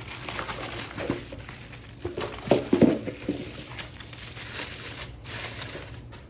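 Parts and their packaging being handled: irregular rustling and crinkling with light clicks and knocks, loudest about two and a half seconds in.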